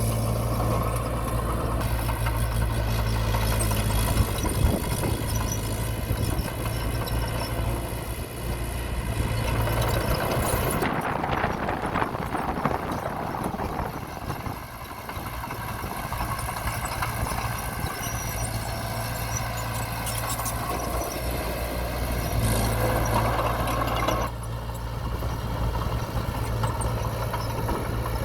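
Heavy machinery diesel engine running steadily. Its low drone drops away about ten seconds in, giving way to a rougher, noisier sound, and returns about twenty-two seconds in.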